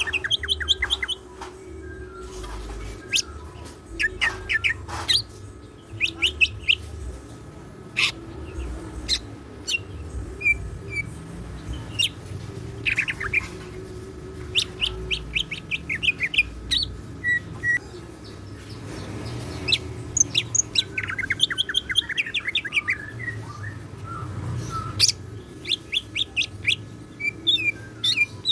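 Cucak ijo (leafbird) singing a long, varied song of sharp chips, fast trills and short whistles, strung together from imitated calls of other birds. A faint low hum runs underneath.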